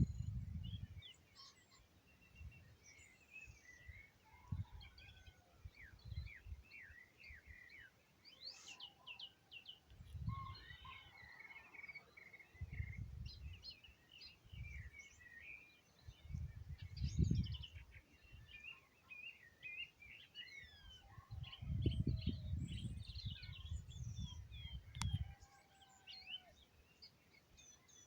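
Many small birds singing and chirping together in quick overlapping calls and trills. Several low rumbling swells of noise come and go beneath them, the strongest in the second half.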